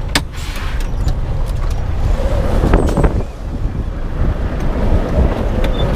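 Strong storm wind buffeting the microphone, a dense low rumble with gusts, and a sharp knock just after the start.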